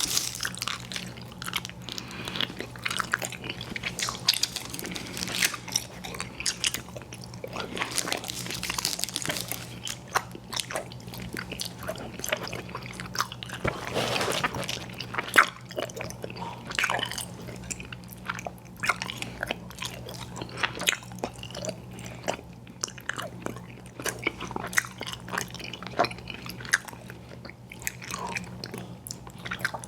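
Close-miked chewing and biting of chewy fruit candies (Airheads Bites and Tootsie Fruit Chews), with irregular wet smacking clicks. A faint steady low hum runs underneath.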